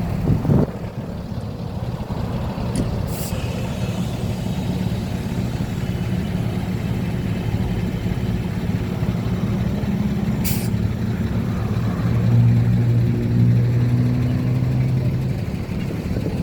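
Street traffic: vehicle engines running steadily, with a heavier engine's hum swelling about ten seconds in and dropping away near the end. There is a short knock at the start and a couple of brief hisses.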